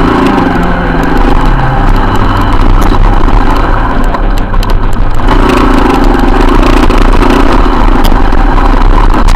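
Motorcycle engine running on the move, under a heavy rush of wind noise on the action camera's microphone. The level dips somewhat for a few seconds in the middle, then picks up again.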